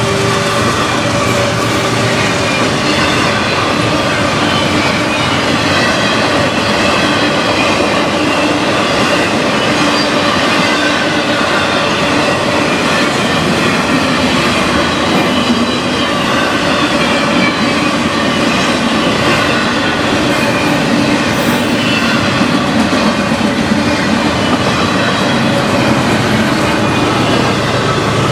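Railroad cars rolling past at close range: a steady rumble and clatter of wheels on the rails, with high wheel squeal coming and going over it.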